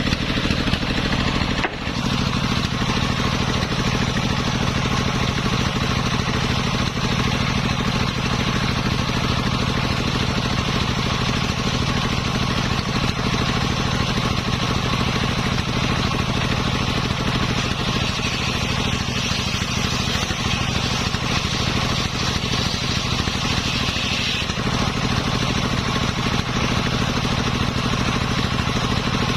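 Engine of a homemade circular-saw rig running steadily, with a brief dip about two seconds in. A higher hiss joins for several seconds past the middle, then stops abruptly.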